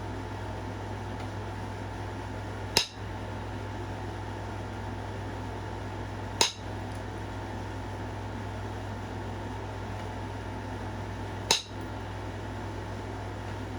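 Pressure flaking a knapped stone point: three sharp snaps, a few seconds apart, as flakes pop off the edge.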